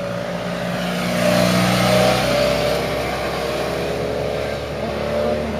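A motor vehicle engine running, growing louder about a second in and easing off after two seconds or so, as a vehicle goes past.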